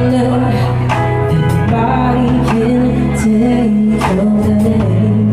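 Band music played loud, with a singing voice over long held bass notes and regular sharp drum and cymbal hits.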